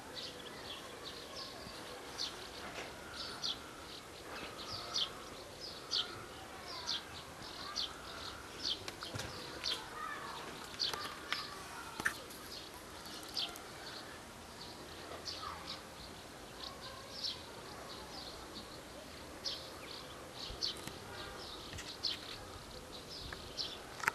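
Birds chirping: many short, high chirps repeated irregularly throughout, with a few lower sliding calls among them.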